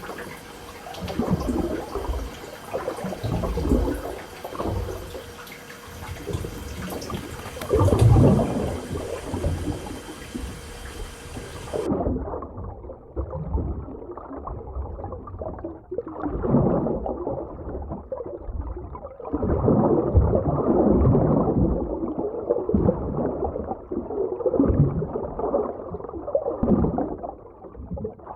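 Water sloshing and gurgling in irregular surges, with deep rumbles. About twelve seconds in the high hiss cuts off abruptly and the rest sounds muffled, as if heard underwater.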